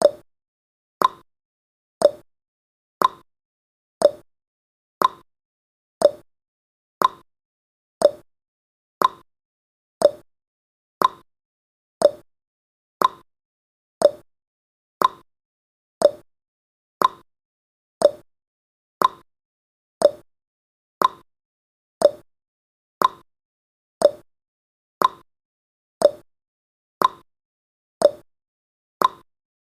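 A clock-style ticking sound effect from a countdown timer: one short, sharp tick every second, each ringing briefly. The ticks seem to alternate slightly higher and lower, like a tick-tock.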